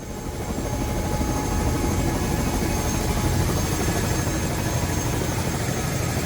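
Helicopter turbine engine and rotor running steadily, a loud even noise with a thin high whine, rising over about the first second.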